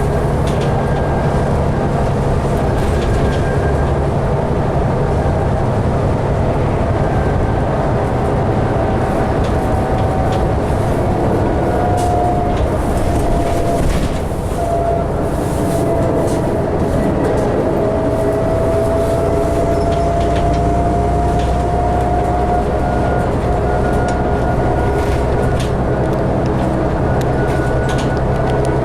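Ride noise inside a 2012 New Flyer D60LFR articulated diesel bus under way: a steady low engine drone with a whine that dips and rises in pitch through the middle, and light rattles.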